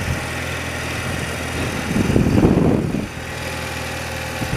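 Engine of a 30-year-old BMW motorcycle running steadily under way, swelling louder for about a second midway.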